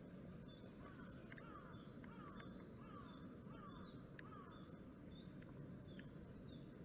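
A bird calling a run of five short falling notes, about two a second, over a faint low rumble, with a few faint clicks afterwards.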